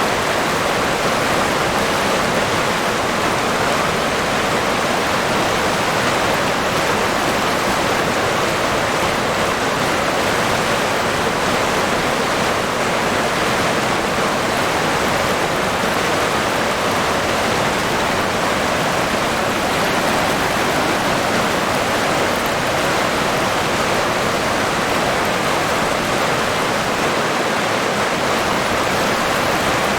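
River water rushing and burbling steadily, an even unbroken wash of flowing water.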